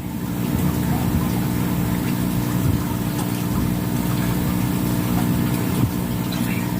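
A steady low machine hum, running evenly without change.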